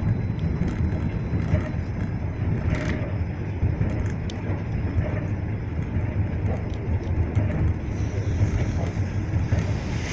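Steady low rumble of a suburban electric train running at speed, heard from inside the carriage, with faint scattered ticks and rattles.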